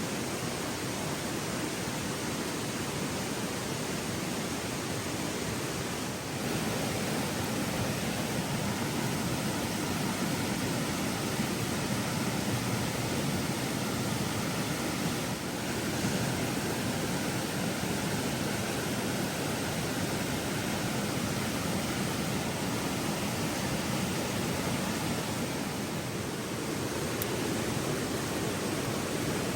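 Steady rushing of a flowing river: an even hiss of water with no separate sounds in it, shifting slightly in level a few times.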